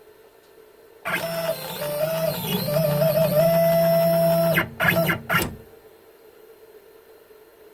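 CNC router's stepper motors driving an axis along its travel: a steady whine for about three and a half seconds whose pitch steps up and down as the speed changes, stopping abruptly, then two short jogs.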